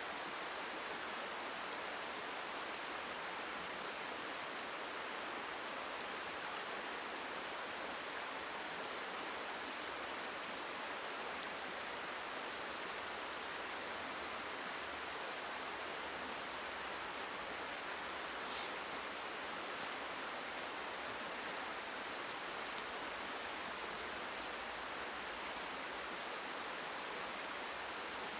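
Steady rushing of a river, an even noise that holds unchanged, with a few faint ticks on top.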